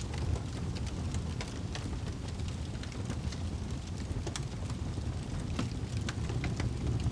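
Wood fire in a fireplace burning with a steady low rumble and frequent sharp crackles and pops, several a second.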